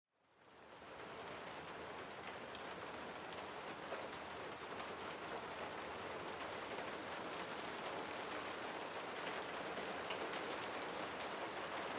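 Steady soft rain falling, with scattered droplet ticks, fading in over the first second.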